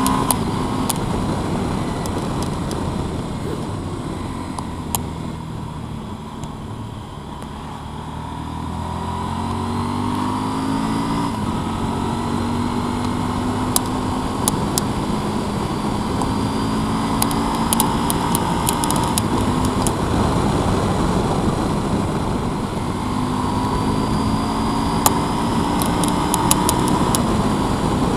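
Motorcycle engine under way, its pitch climbing through the gears and dropping at each change; it eases off around six seconds in and builds again from about nine seconds. A few sharp clicks are scattered through it.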